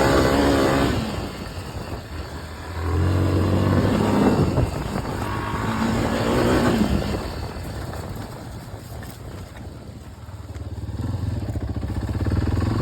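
Yamaha TTR250 four-stroke single-cylinder dirt bike engine under way on a trail, revving and easing off by turns. It is loud at first, drops off about a second in, picks up again at about three seconds, then eases off into a quieter stretch before building again near the end.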